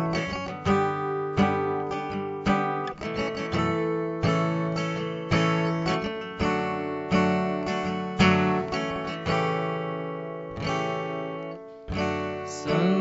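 Acoustic guitar intro, strummed chords ringing and decaying in a steady rhythm, with no voice.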